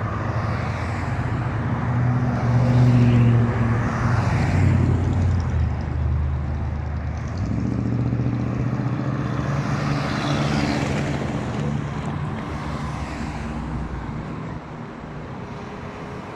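Trucks driving past one after another, their engines' low drone swelling as each one nears, loudest about three seconds in and again around ten seconds, then fading.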